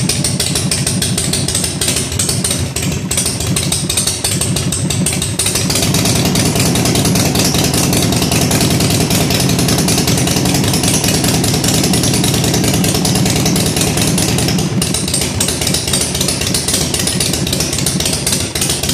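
A custom chopper's 113 cubic inch Ultima V-twin engine running steadily and loud on its first start-up, with a slightly fuller sound about six seconds in.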